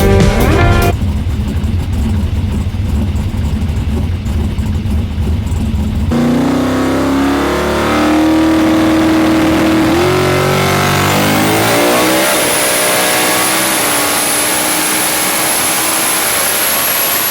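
Drag-racing Ford XW Falcon's engine: after music cuts off about a second in, a low rumble for several seconds, then a hard launch with the engine note climbing in steps through the gears at full throttle, a thin high whine rising over it near the end.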